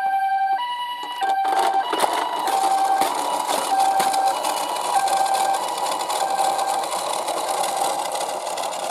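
Two-tone hi-lo ambulance siren alternating between its high and low notes about every half second, joined about a second in by the steady clattering rattle of small die-cast toy cars rolling down a slope.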